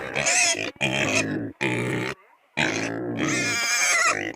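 Pigs squealing and grunting in a run of loud calls, each half a second to a second and a half long, some rising in pitch: hungry pigs calling for food.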